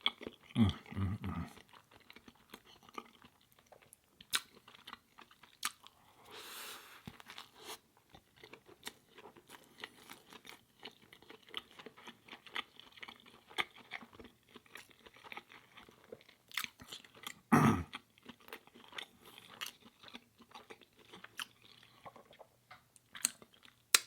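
Close-miked chewing and crunching: a person eating, with many short wet mouth clicks and crunches, and a louder low mouth sound about two-thirds of the way through.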